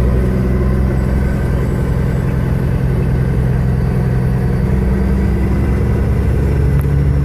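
Motor vehicle engine idling with a steady low hum that stays unchanged throughout.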